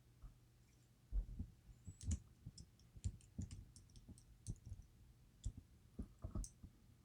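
Faint, irregular small clicks and taps of metal tools and lock pins being handled while keypins are worked out of a DOM IX Twinstar lock plug.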